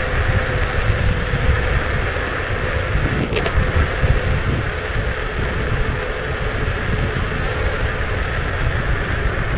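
Kukirin G2 electric scooter riding along: steady wind buffeting and tyre-on-road rumble with a faint, even motor whine, and a brief high sound about three and a half seconds in.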